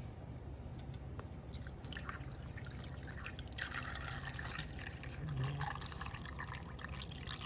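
Water being poured into the reservoir of a Sboly single-serve coffee maker, the splashing growing stronger about halfway through.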